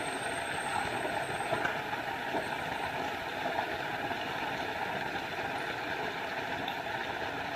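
Small forest waterfall: a steady rush of falling water.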